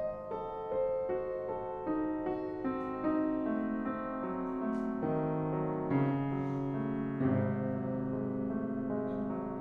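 Piano music, single notes and chords following one another at an unhurried pace.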